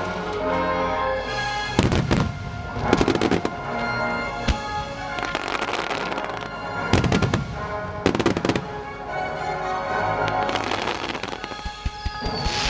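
Aerial firework shells bursting in a choreographed display set to music: a handful of loud booms, strongest about two, three, seven and eight seconds in, with smaller pops and crackle between them over the continuous music.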